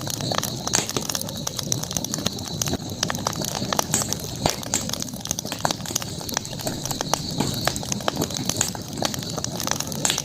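Campfire burning, with frequent irregular crackles and sharp pops over a steady high-pitched hiss.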